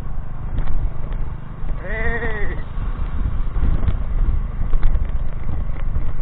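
Steady low rumble of a motorcycle ride, engine and wind, with one short wavering animal bleat about two seconds in.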